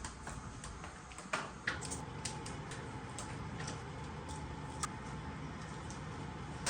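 Faint, scattered light clicks and knocks of household objects being handled over a low steady room rumble, with two louder knocks about a second and a half in.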